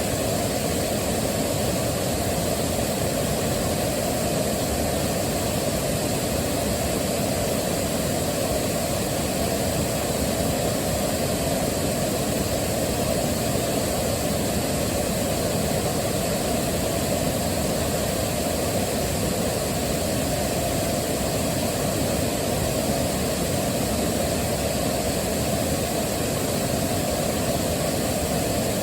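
Waterfall rushing in a steady, unbroken roar of water noise, heaviest in the low and middle range.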